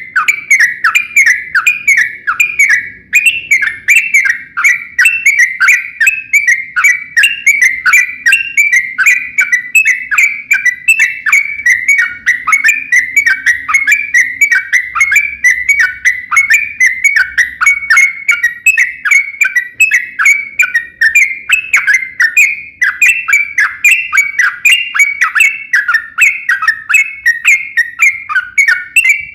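Yellow-vented bulbul (trucukan) singing a long, unbroken run of quick, bright, chattering notes, about three a second. This is the continuous 'ropel' song used as a lure to make other bulbuls answer.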